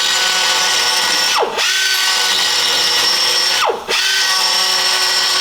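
Handheld power grinder beveling steel plate to 45 degrees for a weld joint: a steady high whine with hiss. Twice, about a second and a half in and again near four seconds, it is let off and its pitch falls, then it starts straight back up.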